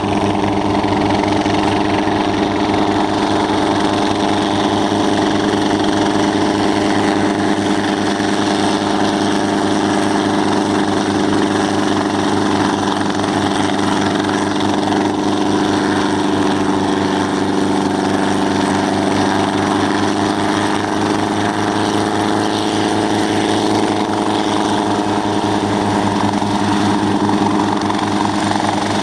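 Helicopter engine and rotor running steadily, with a fast, even pulsing underneath a constant engine tone.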